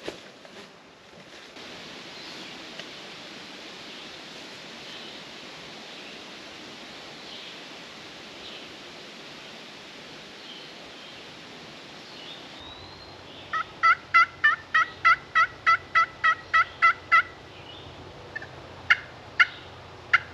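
Wild turkey yelps: a quick, even run of about a dozen sharp notes at roughly three a second, followed by a few single notes near the end. Before them there is a steady outdoor hiss.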